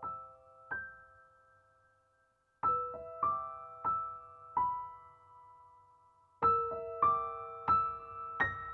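Gentle background piano music: single notes struck one at a time, each ringing and dying away, in short phrases.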